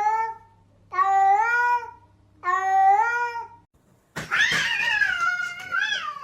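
A cat meowing in long, even calls, about one a second. After a short gap comes a rougher drawn-out cat yowl of about two seconds that falls in pitch at the end.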